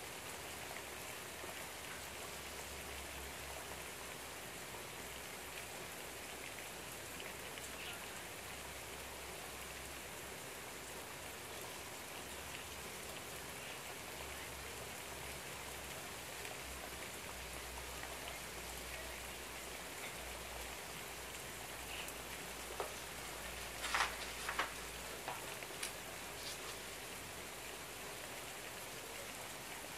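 Steady afternoon rain falling outside an open window, an even patter. About two-thirds of the way through, a few brief clicks sound over it.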